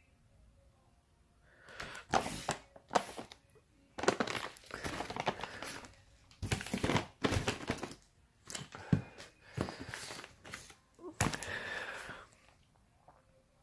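Fireworks and their packaging being handled during unboxing: irregular rustling and crinkling with knocks of items set down, starting about two seconds in and stopping shortly before the end.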